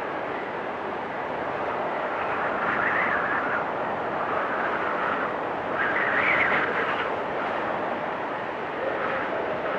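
Storm wind blowing hard and steadily, with gusts swelling about three and six seconds in, each carrying a high whistling note.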